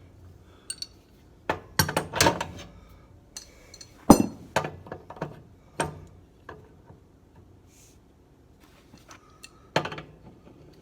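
Hand tools knocking and clinking against the metal parts of a gas furnace: a string of separate sharp knocks with short gaps between, the loudest about four seconds in.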